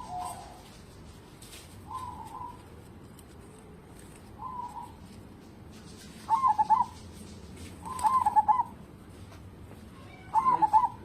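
Zebra dove (perkutut) cooing: short rippling coo phrases come about every two seconds, and the last three are louder.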